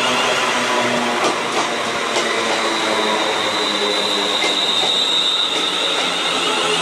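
ScotRail Class 380 electric multiple unit running into the platform close by, a steady loud rumble of wheels on rail with scattered clicks over the rail joints. About three seconds in a high squeal from the wheels sets in and fades out a couple of seconds later.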